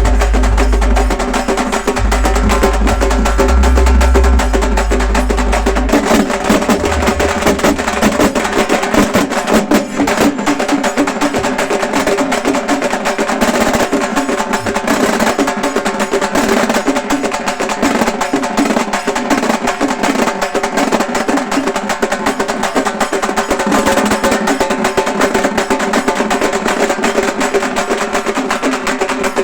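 Halgi group playing: several halgi frame drums struck with sticks in a fast, unbroken rhythm, close to a roll. A deep low rumble lies under the first six seconds or so.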